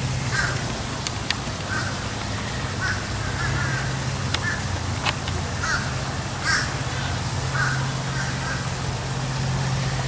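A bird giving short, harsh caws, repeated roughly once a second, over a steady low hum.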